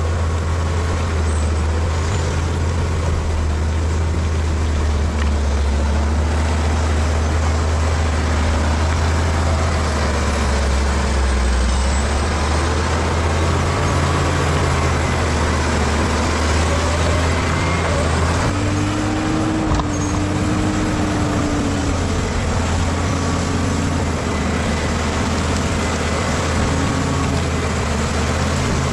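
Bulldozer's diesel engine running steadily under load with a heavy low rumble while pushing soil; the engine note shifts about two-thirds of the way through.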